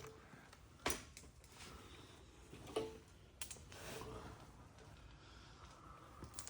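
A few sharp metallic clicks and clinks, spaced irregularly, from hand tools and bolts as the drive shaft bolts are worked loose.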